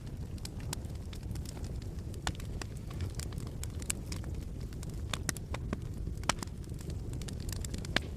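Fire crackling in a fireplace: irregular sharp crackles and pops over a low steady rumble, with a couple of louder pops in the second half.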